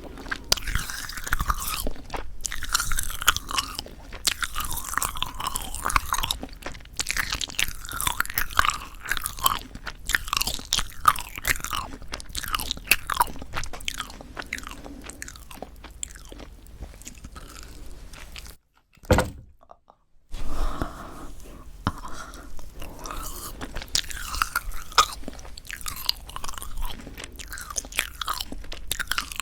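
Close-miked chewing of a marshmallow pop that has gone tough and rubbery, with many small wet clicks and squishes. The sound drops out almost completely for about a second and a half about two-thirds of the way through.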